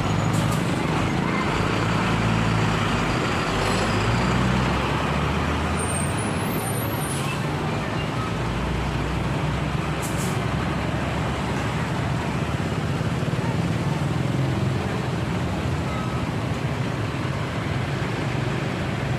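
Steady road traffic with the low drone of heavy truck diesel engines passing, over continuous tyre and road noise.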